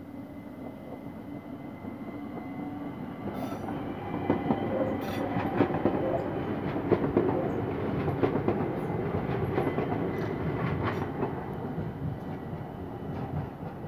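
ÖBB Talent electric multiple unit pulling out and running past, its wheels clacking over the rail joints. The sound grows louder from about two seconds in and eases off near the end.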